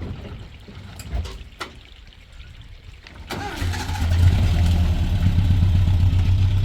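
A few clicks, then a motor vehicle's engine starting a little past the halfway point and settling into a steady idle.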